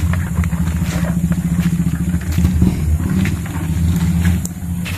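A small engine running steadily at an even speed, with a few light clicks and knocks over it.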